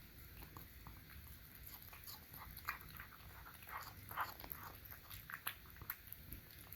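Cat eating wet canned cat food: irregular small wet smacks and chewing clicks, a few louder ones in the middle.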